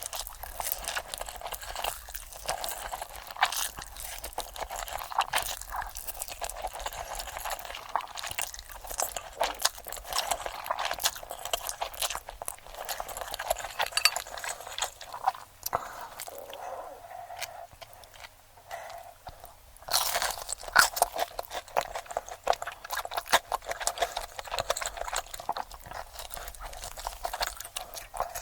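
Close-miked, sped-up mukbang eating: a continuous run of crunchy bites and chewing of crisp food, with a quieter spell about two-thirds of the way through.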